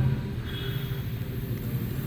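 Steady low mechanical hum, with a faint high tone briefly about half a second in.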